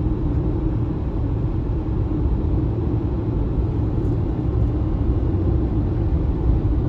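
Steady low rumble of road and tyre noise from an MG ZS EV being driven, with no engine note, since the car is electric.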